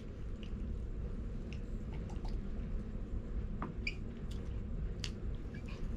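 Faint mouth sounds of a person eating French fries: soft chewing with small, scattered wet clicks, over a steady low background hum.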